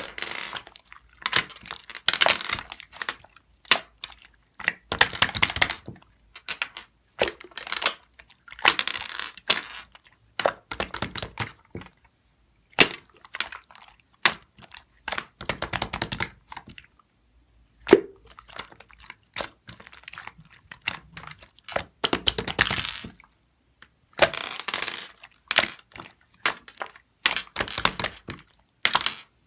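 Irregular clusters of sharp crackling and clicking, separated by short pauses.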